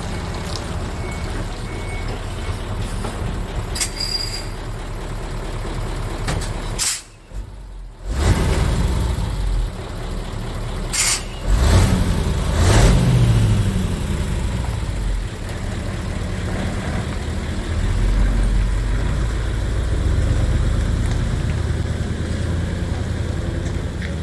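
Hino Super Dolphin's 20-litre F20C V8 diesel engine running steadily, revving briefly about 12 seconds in. Short sharp bursts of air-brake hiss come about 7 and 11 seconds in.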